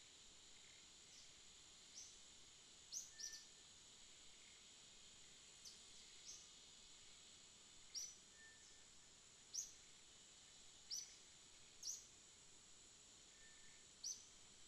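Jungle ambience: a steady, high insect drone, with short, sharp high chirps breaking in irregularly every second or two.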